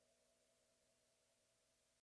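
Near silence: a faint, steady low hum and hiss.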